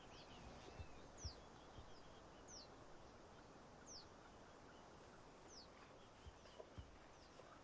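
Faint bird calls: short, high-pitched falling notes repeated about every one and a half seconds, over a faint steady background hiss.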